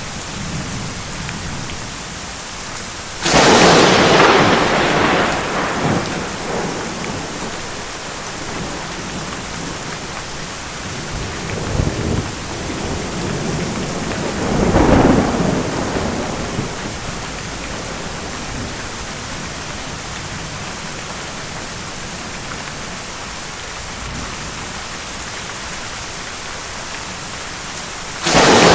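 Steady heavy rain hissing throughout, with thunder: a sudden loud crack about three seconds in that rumbles away over a few seconds, a weaker rumble about twelve seconds in, another rumble about fifteen seconds in, and a fresh sharp clap right at the end.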